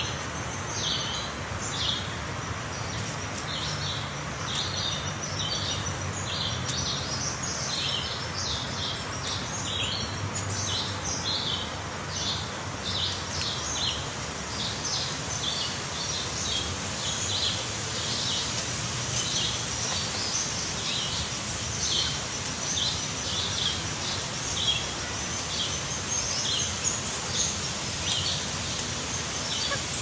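Small birds chirping over and over in short, high-pitched notes, a few each second, over a steady outdoor hiss.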